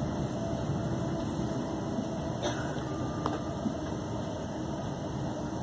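Inside a Class 350 Desiro electric multiple unit running at speed: a steady rumble of the wheels on the rails with a faint steady whine over it, and a couple of light clicks near the middle.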